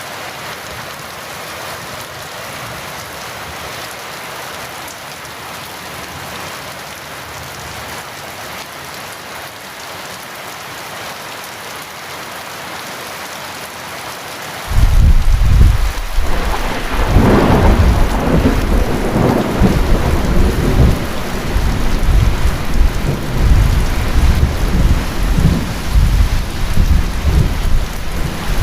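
Heavy rain falling steadily. About halfway through, thunder breaks in suddenly with a loud clap and keeps rumbling deep and rolling over the rain.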